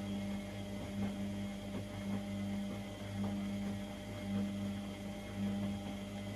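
Privileg Sensation 952 S top-loading washing machine running mid-cycle: a steady electric hum that swells and eases roughly once a second, with faint light ticks.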